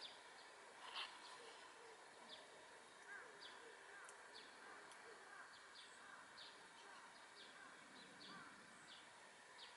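Faint small birds chirping outdoors: short, quick calls about one or two a second over a light steady hiss, with one louder call about a second in.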